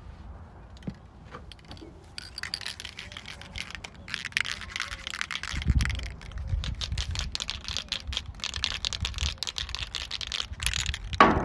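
Rust-Oleum Turbo Can aerosol spray paint can being shaken by hand, its mixing ball rattling rapidly inside. The rattle starts about two seconds in and keeps going, which mixes the paint before spraying.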